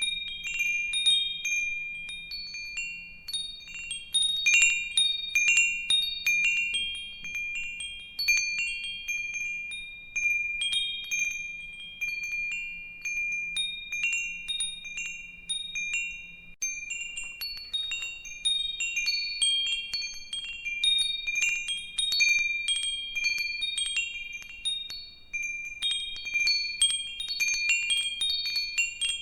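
Metal wind chimes ringing, struck irregularly and often, with high clear tones that overlap and ring on.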